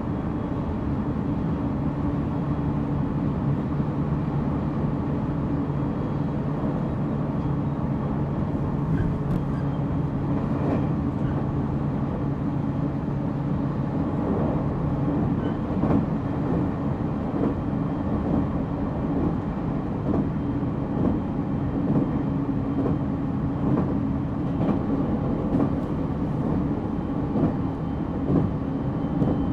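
Running noise inside the motor car of a JR Central 313 series electric train (MoHa 313-7) moving at speed: a steady rumble with a few held humming tones, the lower one fading out about halfway through, and faint irregular clicks.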